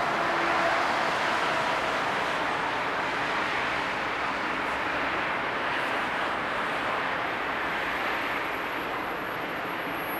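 Regional passenger train slowly approaching a station platform: a steady running and rolling noise that holds an even level, with a thin high-pitched whine coming in partway through.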